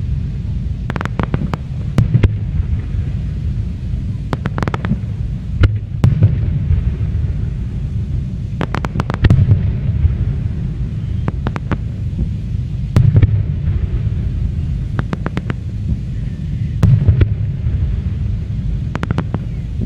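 Aerial fireworks display: a continuous low rumble of booming shell bursts that swells and fades, with clusters of sharp cracks and bangs every few seconds.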